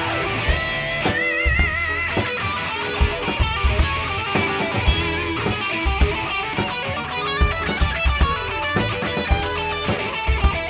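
Live rock band playing an instrumental break with no vocals: an electric guitar lead with held, wavering notes over a steady drum beat, bass and keyboards.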